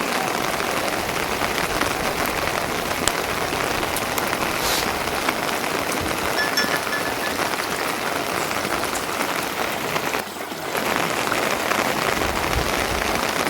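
Steady rain falling, a dense even wash of drops, briefly softer about ten seconds in.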